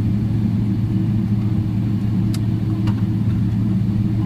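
Steady low cabin hum of a Boeing 777-300ER on the ground after landing, with two faint clicks a little after the middle.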